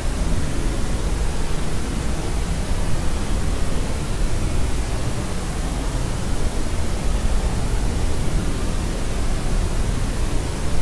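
Steady white noise for soothing a crying baby: an even, unchanging hiss, heavier in the low end.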